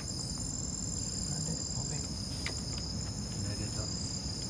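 A chorus of crickets and other night insects trilling steadily at a high pitch, over a low background rumble.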